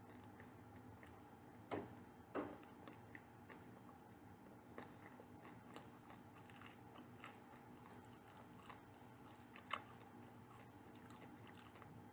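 A person biting into and chewing baked goods: two sharp bites a couple of seconds in and another near the end, with soft, irregular chewing clicks between them.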